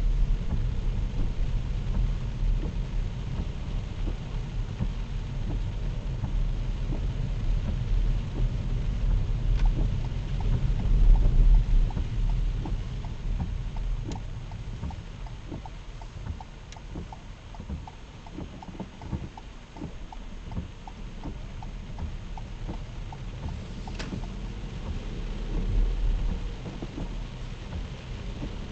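Low rumble of a vehicle travelling on a wet road in heavy rain, with scattered faint ticks and taps through the middle.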